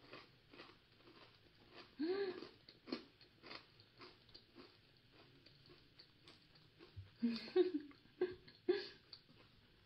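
Close-up chewing of a crispy ginger senbei cracker: a run of small crisp crunches as pieces are bitten and chewed. There is a short "mm" hum about two seconds in and a few brief murmurs near the end.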